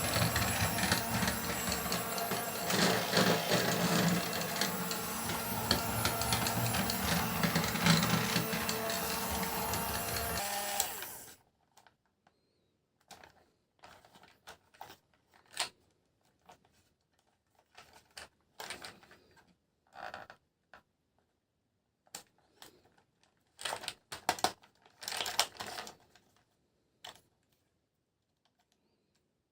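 A small motor whirring and clattering, which stops suddenly about eleven seconds in. Then come scattered light clicks and taps of small plastic parts being handled.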